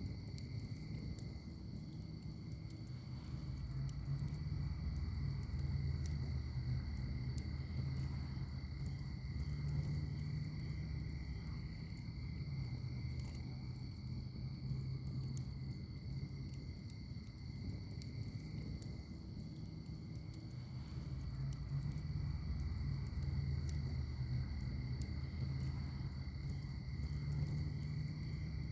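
Wood fire in a fire pit crackling with frequent small pops over a low, swelling rumble of the flames. A steady, high-pitched insect trill runs behind it.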